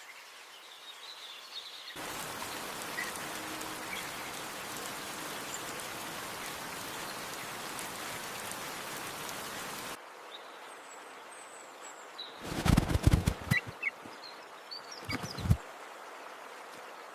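Small birds chirping faintly, cut by about eight seconds of steady rain-like hiss that starts and stops abruptly; near the end, two bursts of low rustling thumps.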